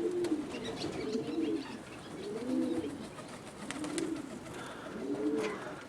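Domestic pigeons cooing, a string of soft rising-and-falling coos about one a second, some overlapping from more than one bird.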